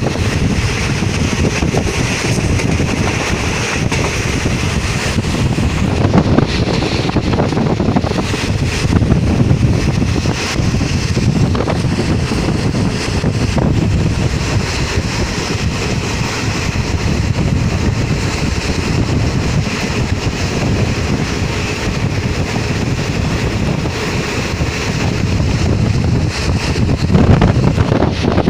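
Wind buffeting the microphone, a loud gusting rumble over a steady rushing hiss.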